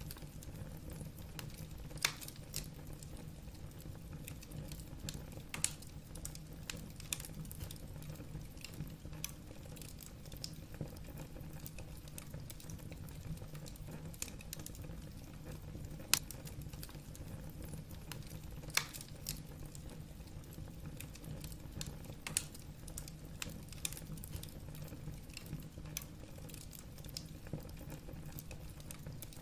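Wood fire burning in a fireplace: logs crackling with irregular sharp pops and a few louder snaps, over a steady low rumble.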